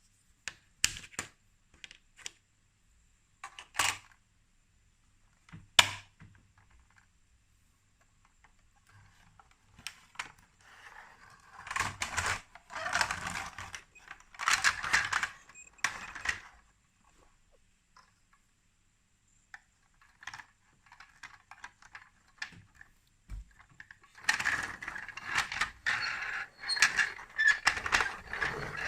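Plastic toy building pieces being handled and snapped together: a few single sharp clicks, then longer spells of clattering and rattling near the middle and toward the end.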